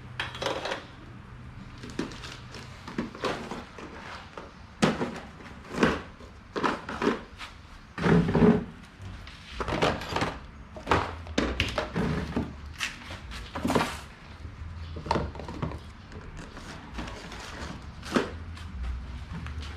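Irregular knocks, clicks and clunks of hard parts and tools being handled and set down during a fan repair, about twenty in all, loudest around the middle.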